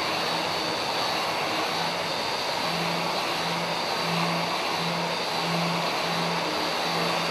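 Handheld power polisher with a cylindrical drum wheel running against stainless steel sheet: a steady high whine over a grinding hiss, finishing the metal surface. It cuts off suddenly at the end.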